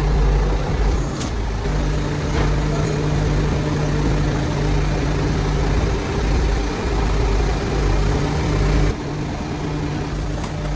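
Steady drone of running factory machinery with a low electric-motor hum, two light clicks in the first few seconds, and a sudden drop in level about nine seconds in.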